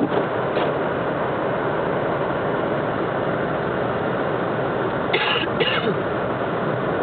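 A car driving on a snowy road, its engine and tyres making a steady noise as heard from inside the car. Two short bright bursts of noise come a little past five seconds in.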